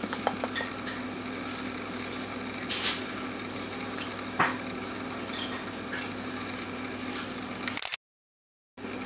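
Fisher-Price Rainforest Jumperoo's plastic toys and frame clicking and clinking as the baby plays in it, with a couple of short high chime tones early and a brief rattle near three seconds in, over a steady low hum. The sound cuts out completely for under a second near the end.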